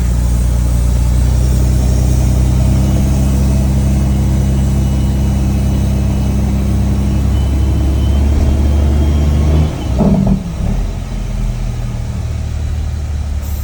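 The CAT C13 diesel engine of a Kenworth W900B dump truck running steadily at raised revs, then dropping back to a lower speed about ten seconds in.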